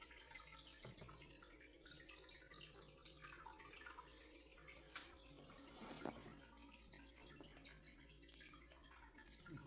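Faint dripping and trickling water, with scattered small ticks and a soft knock about six seconds in.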